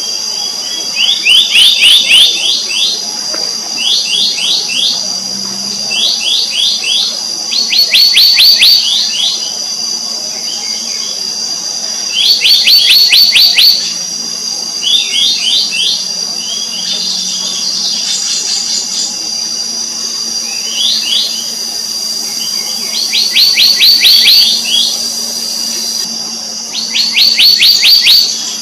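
Black-naped monarch calling: about ten bouts of fast, ringing notes, each note sliding down in pitch, every bout lasting a second or two and coming every few seconds. A steady high drone runs underneath.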